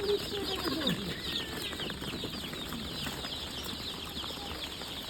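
A dense, continuous chorus of short high chirps from many small birds, with a couple of lower, falling calls in the first second.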